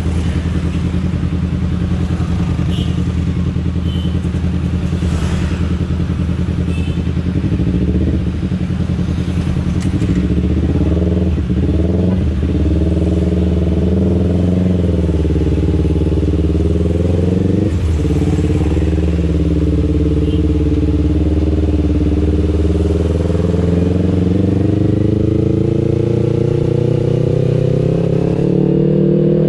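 Kawasaki Ninja 250 FI parallel-twin engine through an aftermarket R9 H2 exhaust, heard on the move. It holds a steady cruising note for the first several seconds, then the revs rise and fall with throttle and gear changes, with a quick drop about eighteen seconds in, and climb steadily near the end.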